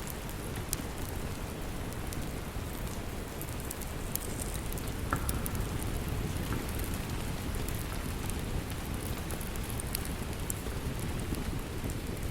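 Steady rain with a deep, even rumble underneath. Scattered sharp crackles and pops of a burning wood fire come through it.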